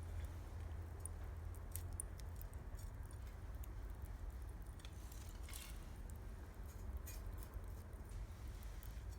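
Wood campfire crackling: scattered sharp pops and ticks of burning firewood over a steady low rumble, with a brief hiss about five seconds in.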